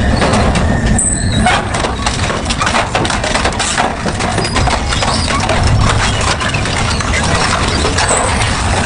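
Double-shaft industrial shredder running and tearing through metal scrap: a steady low machine rumble under a dense, irregular run of crunches, cracks and metal snaps.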